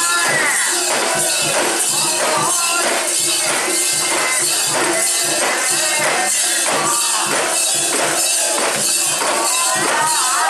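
Japanese festival music (matsuri-bayashi): a steady beat of percussion strokes about twice a second, with a jingling metallic ring over it. A high melody line, typical of a bamboo flute, comes in near the start and again near the end.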